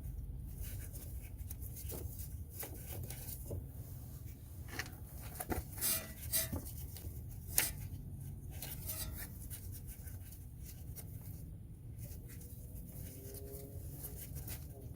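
Hands working plastic wiring-harness clips and fittings loose: scattered light clicks and rubbing, with a sharp click about seven and a half seconds in, over a steady low hum.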